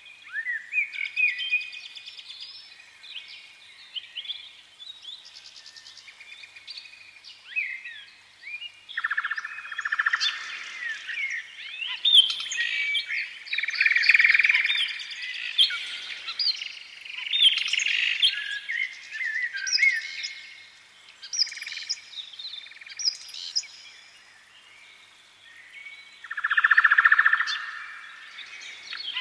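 Several birds chirping and singing at once: overlapping short calls and quick whistled sweeps, busiest in the middle, with a loud burst of chatter near the end.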